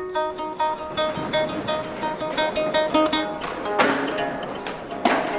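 Guitar riff: a quick run of plucked notes repeating one pitch pattern, with two short swooshing noise swells near the end from experimental sound effects.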